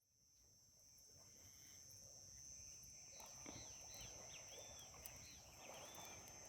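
Faint riverside evening sounds: a steady high insect trill, with a bird chirping a few times about three seconds in.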